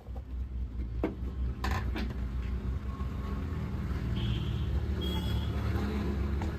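A steady low rumble with a few sharp clicks of tools on metal as the ceiling fan's bolts are undone.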